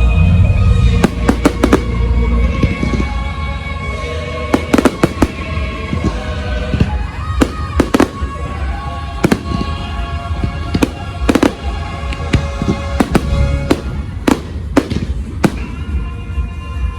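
Fireworks going off in a rapid string of sharp bangs and crackles, with a heavy low boom in the first second. Music plays throughout.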